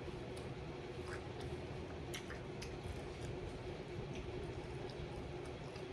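Chewing fried chicken, with scattered faint clicks over a steady background hum.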